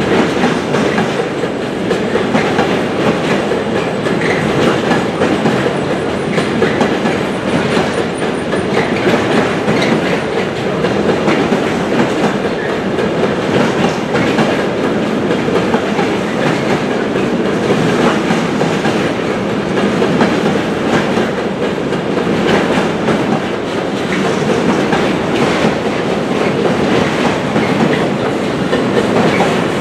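Long container freight train passing, its flat wagons' wheels running steadily and clattering over the rail joints, with a continuous rumble.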